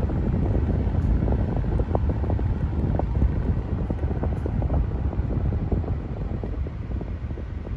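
Low, irregular rumble of wind buffeting the microphone, easing off a little near the end.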